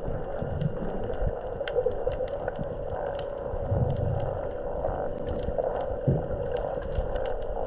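Underwater sound during a spearfishing dive: a steady drone with scattered crackling clicks and low muffled rumbles.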